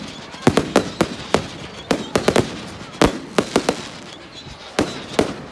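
Fireworks display: a rapid, irregular run of sharp bangs and cracks from bursting fireworks, several coming in quick clusters of two or three.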